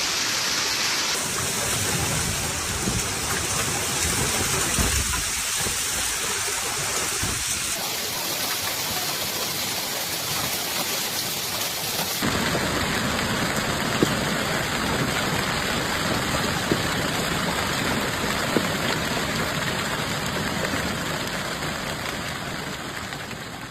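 Heavy rain pouring down steadily, made of several storm recordings joined one after another, so the rush changes abruptly a few times before fading out at the end.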